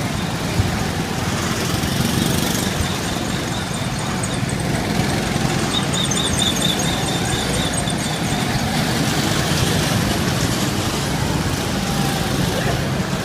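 Small engines of miniature parade trucks running steadily. Partway through there is a run of quick, high chirps.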